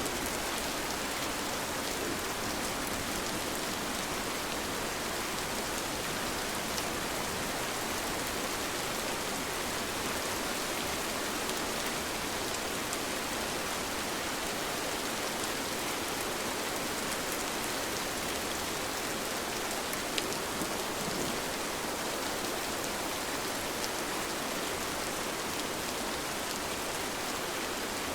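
Steady rain, with scattered drops ticking close by over an even hiss. There is no thunder.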